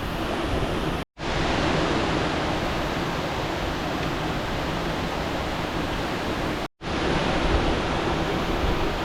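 Steady rush of river water, like a waterfall or rapids. The sound drops out completely for a split second about a second in and again about seven seconds in.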